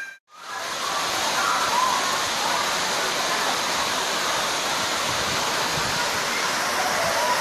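Waterfall's steady rush of falling water, a dense even noise with no breaks. It drops out for a moment at the very start, then comes straight back, with faint voices now and then underneath.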